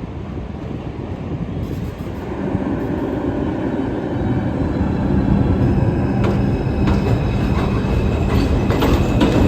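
An R142 New York City subway train approaching and getting louder, with a steady whine and, from about six seconds in, wheels clacking over rail joints.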